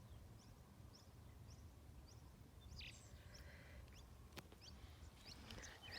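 Faint wild birds chirping: many short, high chirps repeat throughout, with one fuller call about three seconds in, over a low rumble.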